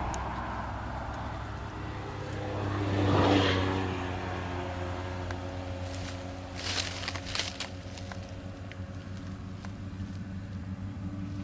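A vehicle passes close by about three seconds in, then an engine runs steadily at low speed, with a few sharp metallic clicks about halfway through.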